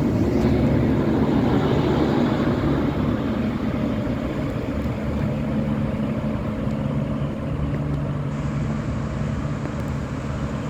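A diesel passenger train's engines running steadily at the platform, a low drone with a rumble beneath it that eases slightly over the seconds.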